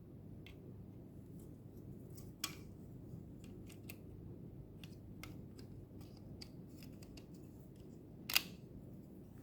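Faint, scattered small clicks and taps of a plastic display housing and small parts being handled, with two sharper clicks, one about two and a half seconds in and one near the end, over a low steady hum.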